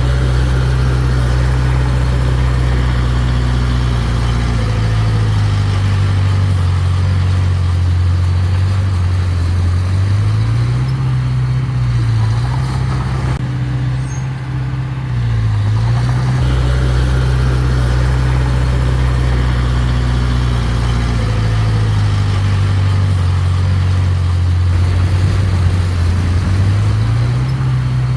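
Mini bulldozer's diesel engine running steadily under work, its engine speed rising and falling a few times.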